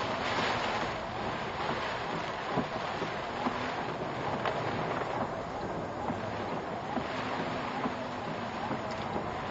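Steady rushing noise of typhoon wind and rain around a car, picked up by the dashcam, with scattered small knocks.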